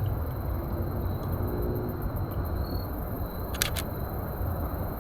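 Outdoor ambience with a steady low rumble and a faint steady high tone, broken by two quick clicks about three and a half seconds in.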